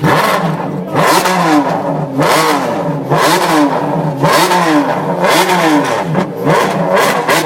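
Ferrari engine revved in repeated throttle blips, about one a second, each rising and falling in pitch.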